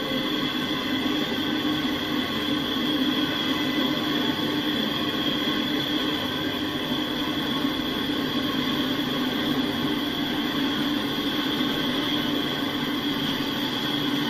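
Double-stack intermodal well cars rolling past at steady speed: a steady, unbroken noise of steel wheels on the rails.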